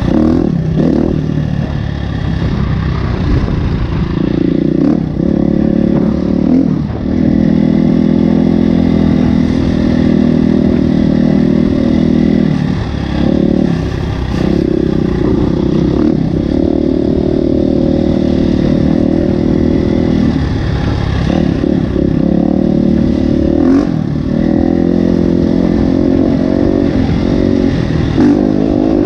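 KTM 350 EXC-F's single-cylinder four-stroke engine running under throttle, its pitch rising and falling as the revs change, with several brief dips where the throttle is closed and reopened.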